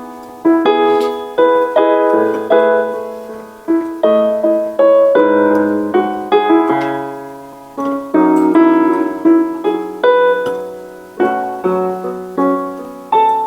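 Solo piano playing a slow Cantopop ballad melody over chords, with a new note or chord struck every half second to a second, each ringing and fading.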